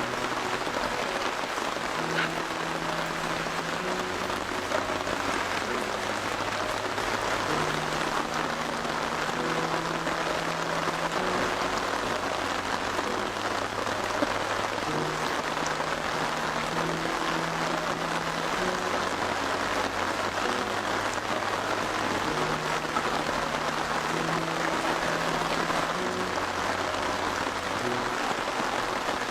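Heavy rain falling steadily, with soft background music of slow, sustained low notes underneath.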